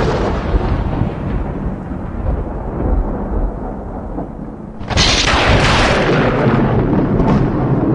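Thunder: a long rumble fading over the first few seconds, then a second sudden loud thunderclap about five seconds in, rumbling on.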